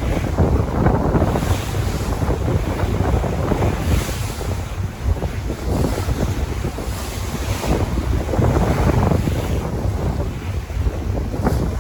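Sea waves washing in surges, under heavy wind buffeting the microphone with a low rumble.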